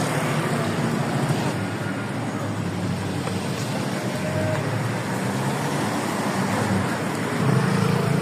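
Road traffic: vehicle engines running steadily and passing, with a louder vehicle near the end.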